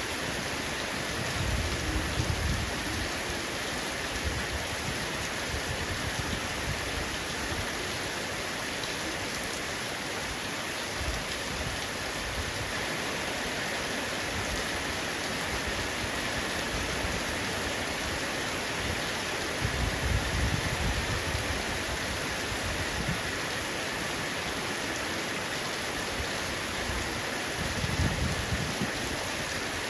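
Heavy rain falling steadily on a roof, a dense even hiss of drops. Low rumbles swell up briefly about two seconds in, around twenty seconds in and again near the end.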